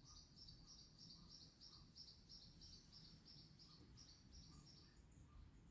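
Faint, rapid high-pitched chirping, about three chirps a second, over near-silent room tone; the chirping stops about five seconds in.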